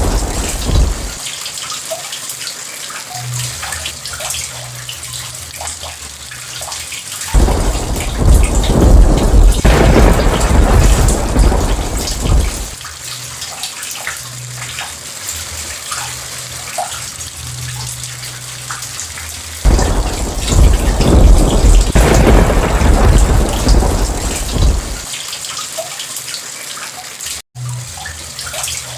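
Steady heavy rain with rolling thunder: a long rumble begins about seven seconds in and another about twenty seconds in, each lasting around five seconds, with the tail of an earlier roll at the start. The sound drops out for a split second near the end.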